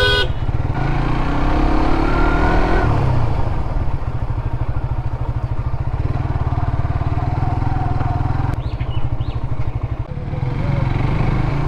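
Suzuki GSX-R motorcycle's engine running steadily while being ridden at low speed, its note rising and falling slightly.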